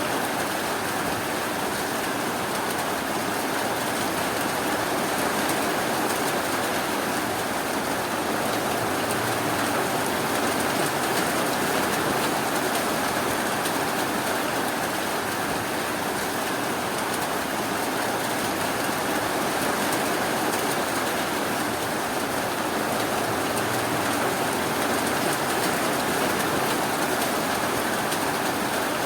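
Steady, even rainfall, a dense hiss of drops with no single drops or thunder standing out.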